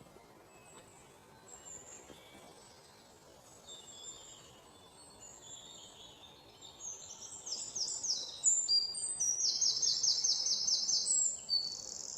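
Birds chirping and singing in high, quick notes. They are faint at first and grow louder from about seven seconds in, ending in a fast run of repeated notes.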